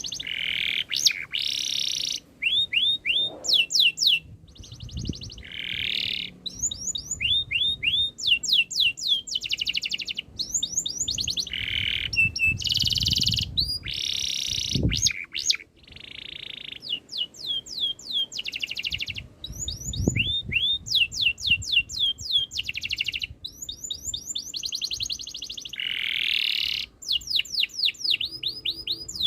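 Domestic canary singing a long, varied song: fast trills of repeated down-sweeping notes alternating with buzzy rolls, in phrases broken by short pauses.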